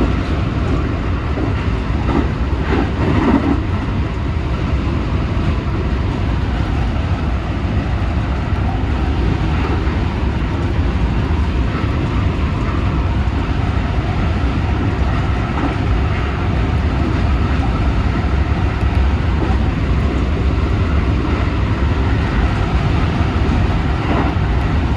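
Running noise of a JR West 223 series 2000-subseries electric train at high speed, heard from the driver's cab: a steady rumble of wheels on rail. There is a brief louder clatter about three seconds in.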